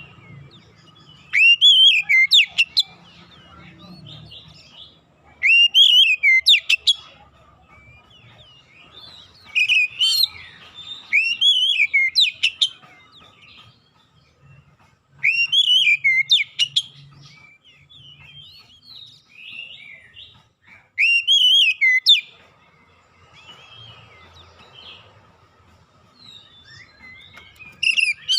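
Oriental magpie-robin (kacer) song used as a lure recording: loud, short phrases of rising-and-falling whistles run into quick high notes, about six phrases with pauses of a few seconds between them.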